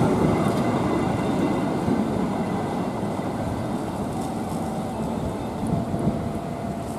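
Coaches of a long-distance passenger train rolling past on the rails, a steady rumble of wheels on track that slowly fades as the last coach goes by and the train pulls away.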